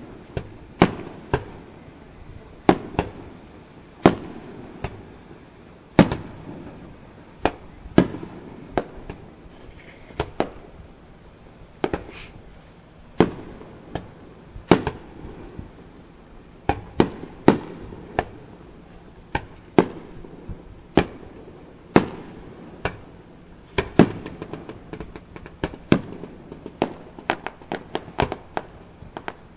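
Aerial firework shells bursting one after another, a sharp bang roughly every second, coming in quicker succession near the end.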